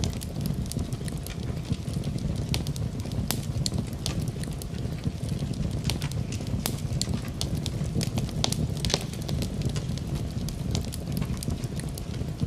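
Fireplace fire burning with a steady low rumble and frequent irregular crackles and pops.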